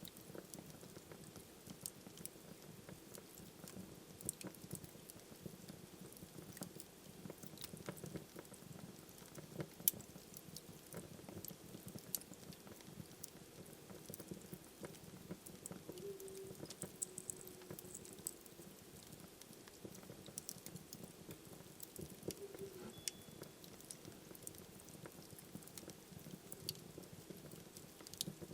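Wood fire burning in a fireplace: a steady low hiss and rumble with irregular crackles and sharp pops, one louder pop about ten seconds in, and a few short faint whistles from the burning wood.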